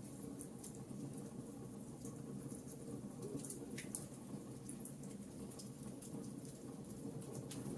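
Wood fire crackling: scattered sharp pops and snaps over a steady low rumble of burning, with one longer crackle about four seconds in.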